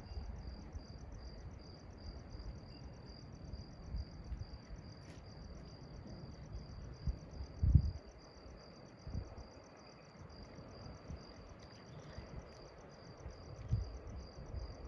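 A cricket chirping steadily, about three short high chirps a second. A few low thumps sound under it, the loudest about eight seconds in.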